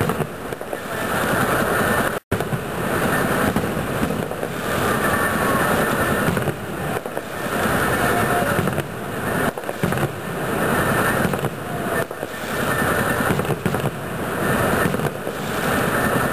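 Fireworks going off in a dense, continuous barrage of crackling bursts, swelling and easing every second or two, with a brief cut-out about two seconds in.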